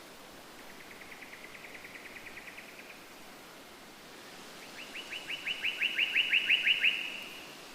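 A songbird singing two rapid trills of repeated chirps, about seven notes a second: a fainter one near the start, then a louder one that swells in volume, over a steady background hiss.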